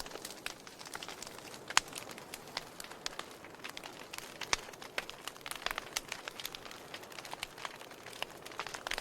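Wood fire burning in a fireplace: irregular sharp crackles and pops over a soft steady hiss, with the loudest pop about two seconds in.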